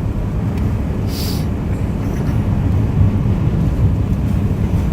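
Car driving on a snowy road, heard from inside the cabin: a steady low rumble of road and engine noise, with a brief hiss about a second in.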